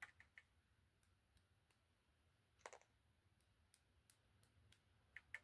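Near silence with a few faint small clicks: a cluster right at the start, one in the middle, and two near the end.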